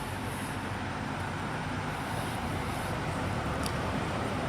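Steady hum of road traffic with no distinct vehicle passing.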